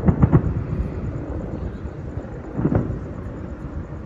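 Distant fireworks booming: a quick cluster of bangs at the start and another about two and a half seconds later, over a steady low rumble.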